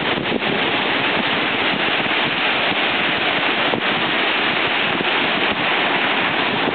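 Mediterranean sea surf washing onto the beach: a steady, unbroken rush of breaking water.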